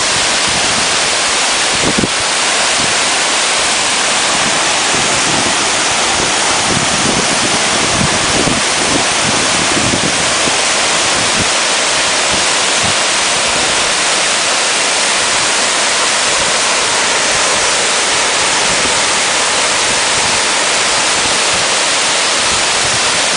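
Waterfall: a loud, steady rush of falling water, with wind buffeting the microphone in low thumps now and then, most around a third of the way in.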